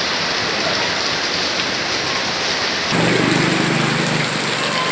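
Heavy rain pouring steadily. About three seconds in the sound changes abruptly and a low hum joins it for a second or so.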